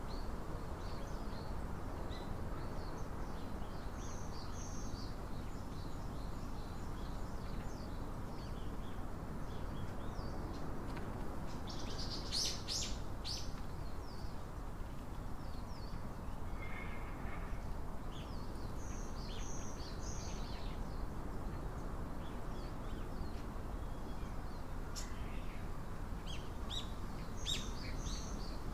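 Small birds chirping in short high calls off and on, with a louder flurry of chirps about twelve seconds in and again near the end, over a steady background hiss.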